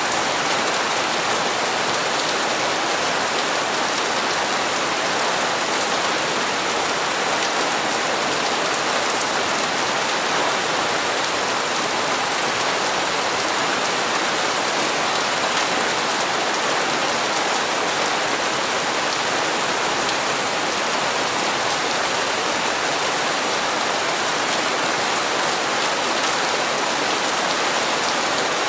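Steady, heavy rain falling, an even hiss of drops with no change in strength.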